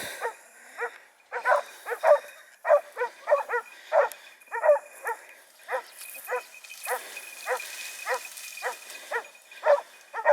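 Hunting dogs barking repeatedly on a boar's trail, with short sharp barks coming about two or three a second.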